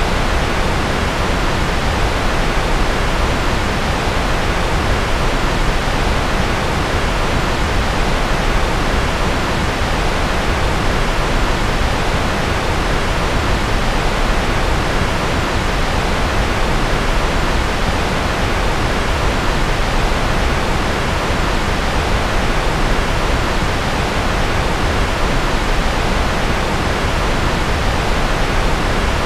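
Steady, unchanging white noise: an even hiss that does not vary, a little softer in the highest pitches.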